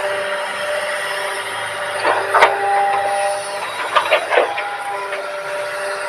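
Excavator running with a steady hiss and a whine that shifts pitch, broken by a few sharp metallic knocks about two seconds in and again around four seconds in.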